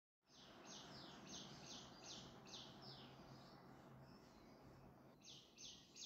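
Faint chirping of a small bird: a quick run of short, high chirps at about three a second, a pause of a couple of seconds, then more chirps near the end, over faint room noise.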